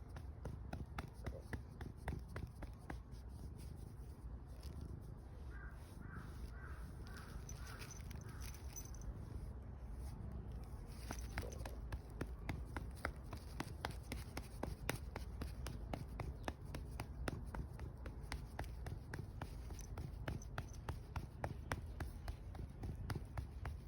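Domestic cat purring while being petted: a steady low rumble with frequent small clicks.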